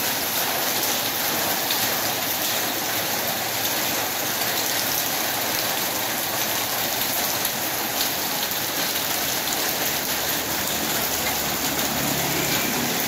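Steady rain falling on wet pavement and puddles: an even, unbroken hiss.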